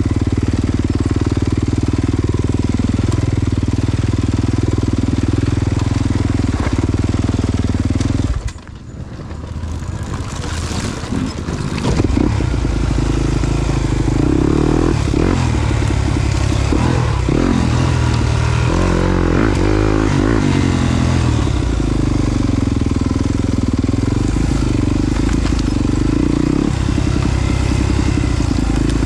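Yamaha YZ250FX four-stroke single-cylinder dirt bike engine running under load on a trail. The throttle drops off sharply about eight seconds in and the engine picks back up over the next few seconds, then rises and falls in pitch through the middle as the rider works the throttle.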